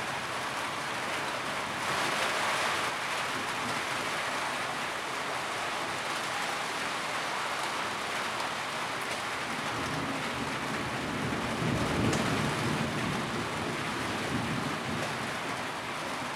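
Steady rain drumming on a tin roof. A low rumble swells and fades about two-thirds of the way through.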